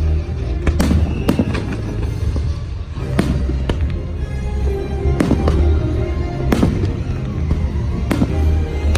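Fireworks bursting in repeated sharp bangs and crackles over the show's loud musical soundtrack, which has a heavy bass beat.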